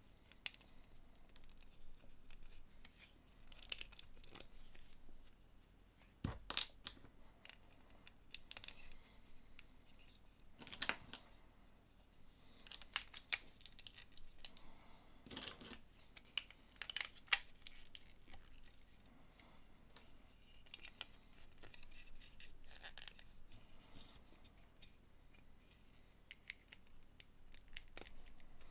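LEGO plastic bricks being handled and snapped together: scattered sharp clicks and short scraping rustles, irregularly spaced.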